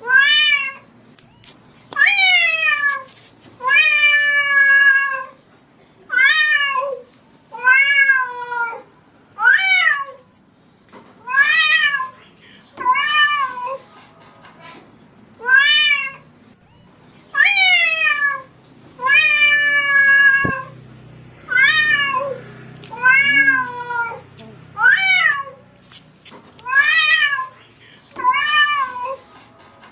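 A domestic cat meowing over and over, about one meow every second and a half, each call rising and then falling in pitch.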